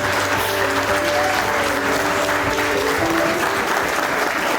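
A room of guests clapping, with background music holding soft chords under it that fade out about three seconds in.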